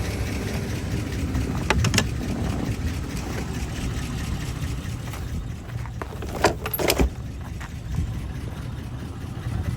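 A van running, a steady low rumble, with a few sharp clicks or knocks, a pair about two seconds in and another pair about six and a half seconds in.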